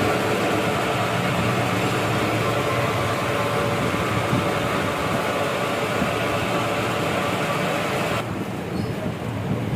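Lathe running while turning a table-fan shaft down to bearing size, with a steady hissing cut over the machine's hum. About eight seconds in the cutting noise stops abruptly and the lathe keeps running.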